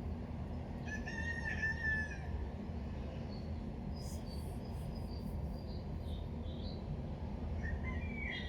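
A rooster crowing once, about a second in, over a steady low background rumble, followed by short high bird chirps.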